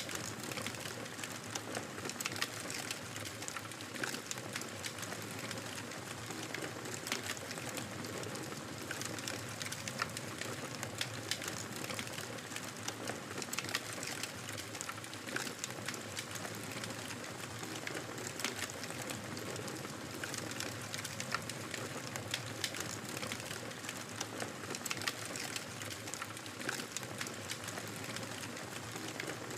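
Wood fire burning in a fireplace: a steady hiss with frequent, irregular crackles and pops.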